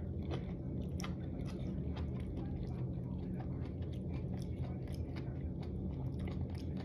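A person chewing and biting mouthfuls of spicy dry hot pot with rice, many small irregular wet clicks and crunches over a steady low hum.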